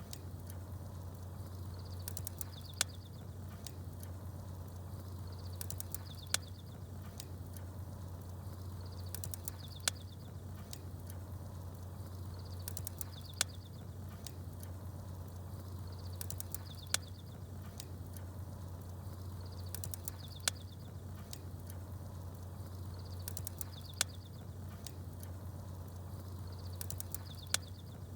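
Campfire crackling with a sharp pop about every three and a half seconds, and small birds chirping in short high bursts between the pops, over a steady low hum. The pattern repeats evenly, like a short loop.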